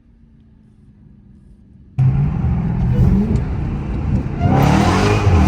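Dodge Charger Hellcat Redeye's supercharged 6.2-litre HEMI V8, its exhaust running without mid mufflers, accelerating hard. After a faint low hum, the exhaust suddenly comes in loud about two seconds in, its pitch climbing and dropping as the revs change, and it turns raspier and fuller about four and a half seconds in.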